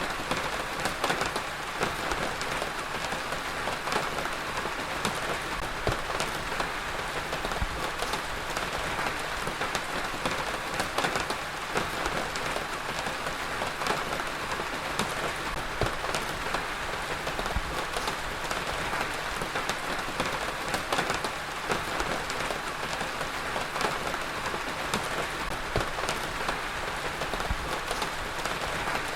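Heavy rain falling steadily, a dense even hiss with many individual drops pattering on a surface.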